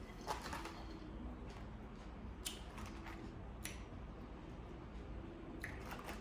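A few faint, sharp clicks and taps, spaced a second or more apart, over a low steady hum.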